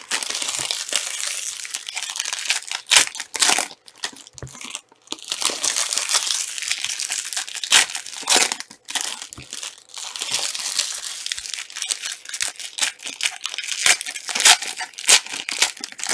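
Trading-card pack wrappers crinkling as packs are opened and the cards handled: a steady rustle broken by many sharp crackles, with a brief pause about four seconds in.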